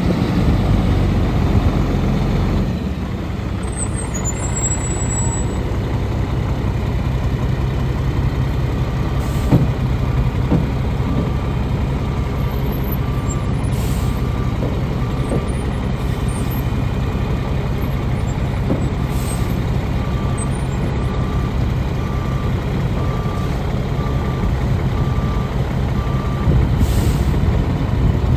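Sterling tri-axle dump truck's diesel engine running steadily, with its backup alarm beeping at an even pace from about a third of the way in until near the end as the truck reverses. A few short air hisses from the air brakes break in.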